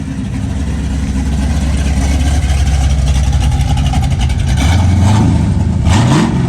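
A vehicle engine running with a steady low rumble, revving up briefly near the end.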